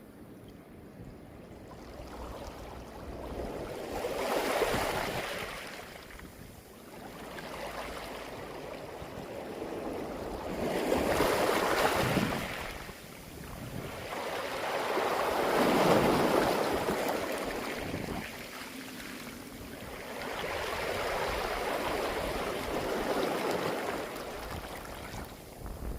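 Sea waves surging onto a beach of rounded pebbles (mongdol) and draining back, the water rolling the stones with a rattling hiss. The sound swells and fades about four times, loudest around the middle.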